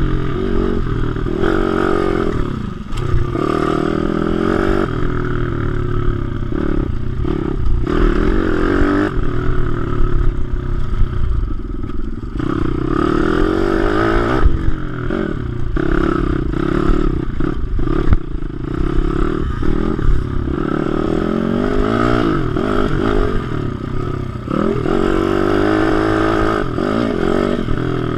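WPB 155 pit bike's single-cylinder four-stroke engine running hard on track, revving up and easing off over and over, its pitch climbing and then dropping back with each gear change or slowing.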